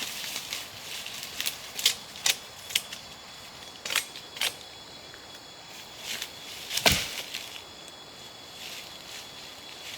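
Irregular sharp snaps and clicks, about a dozen, with one loud knock about seven seconds in, typical of dry wood being handled and broken.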